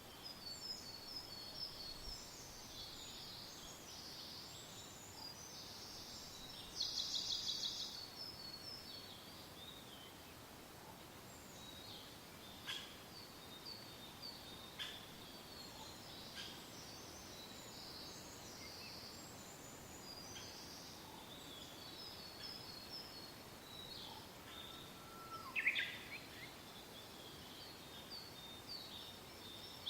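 Several songbirds chirping and singing over a soft, steady wind, with a loud rapid trill about seven seconds in and another a few seconds before the end.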